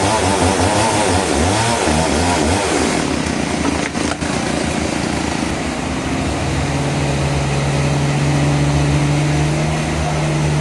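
Engine-driven saw at a sawmill running with a wavering pitch for the first few seconds, dropping away briefly about four seconds in, then settling into a steady engine note.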